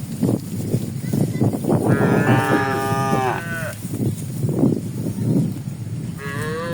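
Cattle mooing: one long moo about two seconds in that falls in pitch at its end, and a second moo starting near the end, over a continuous low, uneven clatter.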